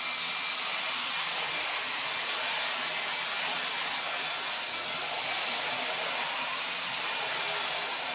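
Steady rush of air from a cleaning tool, switched on abruptly and running at an even level, with a faint high whine in it.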